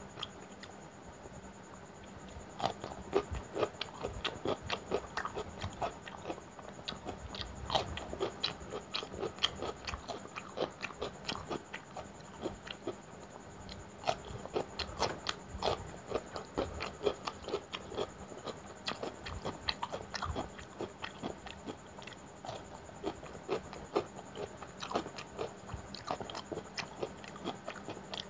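Raw cucumber slices bitten and chewed close to the microphone: a long run of crisp, wet crunches and mouth clicks, starting about two and a half seconds in.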